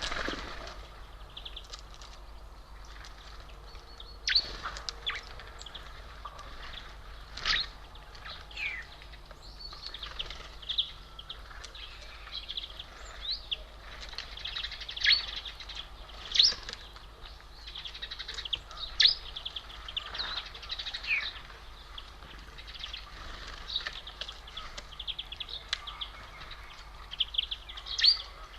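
Small birds at a feeder calling with many short, scattered high chirps and a few quick downward-sliding notes.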